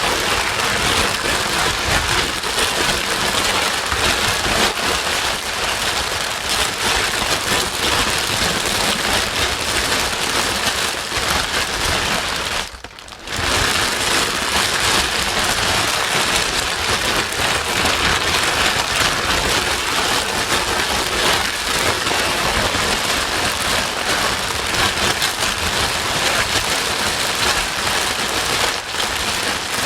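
Continuous white noise for soothing a crying baby: a dense, steady hiss like heavy rain, which drops away for a split second about 13 seconds in.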